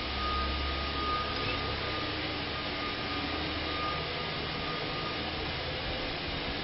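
A steady mechanical hum over even background noise, with a faint high tone that comes and goes.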